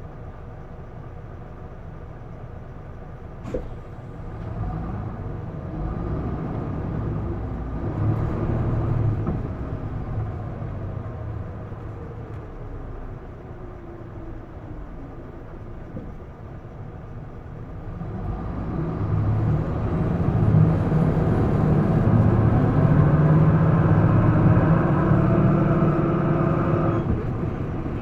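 Isuzu Erga diesel city bus engine heard from inside the cabin, rising and falling in pitch as the bus gathers speed and eases off, then pulling hard at high revs in its second half. A brief sharp sound comes about three and a half seconds in. A faint high whine rises about twenty seconds in and holds.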